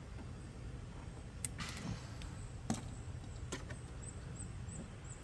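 A few sharp light clicks and a short rustle from the fuel line and a plastic fuel filter being handled, over a steady low hum. A few faint high chirps come near the end.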